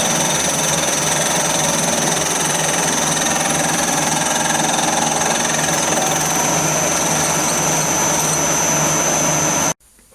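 Metal lathe running and turning a cast aluminium gear blank held on a two-pronged drive, a steady mechanical noise with a constant high whine as light cuts are taken. The sound cuts off suddenly near the end.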